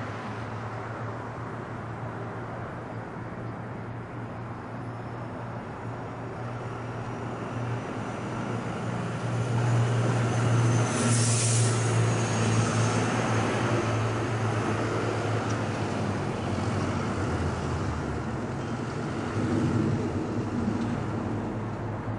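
Airbus A340 airliner's jet engines at takeoff thrust: a steady rumble that swells to its loudest about ten seconds in as the jet passes, then slowly fades.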